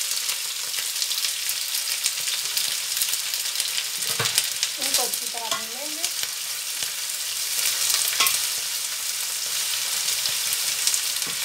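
Sliced onions sizzling steadily in hot oil in a stainless steel pan as they are stirred with a wooden spoon, with a few light clicks of the spoon against the pan. Bitter gourd pieces are also frying in oil in a second pan.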